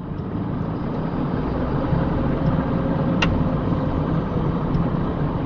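Delivery truck's engine and road noise heard from inside the cab while driving, a steady low hum that swells up at the start, with a single sharp click about three seconds in.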